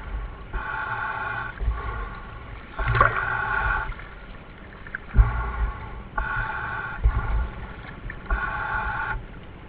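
Diver breathing through a demand regulator, heard over the dive radio: a hissing, droning breath about every two to three seconds, each starting with a low thump.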